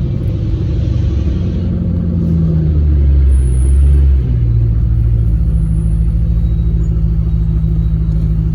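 Car engine and exhaust droning while driving. It pulls harder and louder for a couple of seconds, eases off sharply about four seconds in, then settles into a steady cruise.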